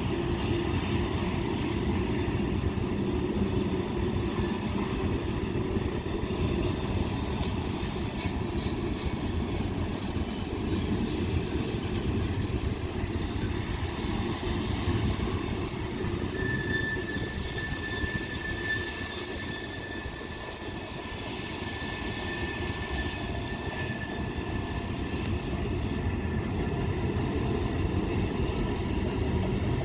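Freight train cars rolling past with a steady rumble of wheels on rail. A thin, high wheel squeal from the flanges on the curve rises out of it about halfway through and holds for several seconds.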